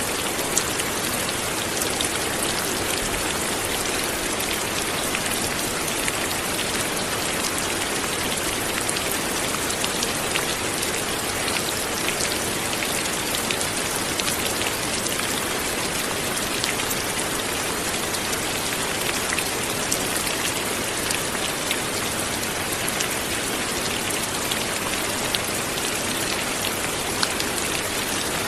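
Steady light rain falling and pattering on surfaces, an even hiss dotted with many small drop ticks.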